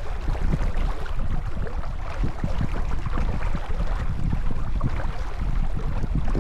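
Wind buffeting the microphone and water rushing past the hull of a J/24 sailboat under way: a steady rushing noise with irregular low thumps.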